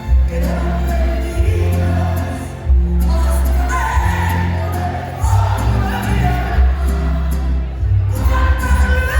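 Live concert music recorded from the audience: a band with heavy, booming bass under a sung melody, with many voices singing together, as the crowd sings along.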